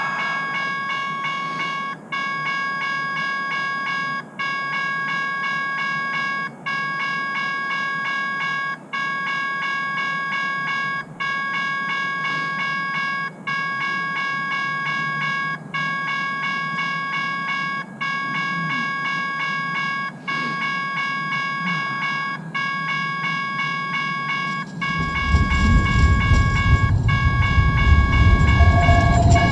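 TriMet MAX light rail train running: a steady high-pitched whine of several tones, cut by brief dips about every two seconds. A loud low rumble joins near the end.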